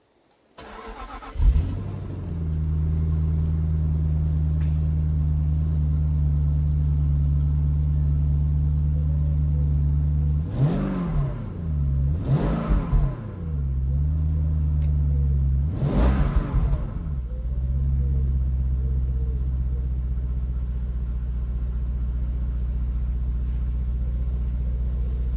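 Jaguar XK8's 4.0-litre AJ27 V8 on a cold start, heard from behind at the tailpipes. It cranks briefly, catches with a sharp bark, then settles into a steady, fast cold idle. Three short throttle blips come later. The sound is very muted and quiet, with the exhaust running through seven silencers.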